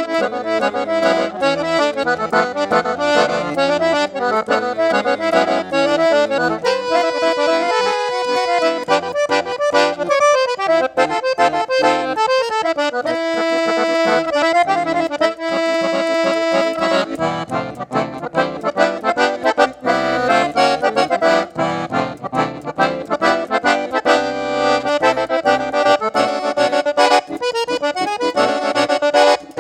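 Accordion (sanfona) playing an instrumental piece, long held notes alternating with quick runs of notes.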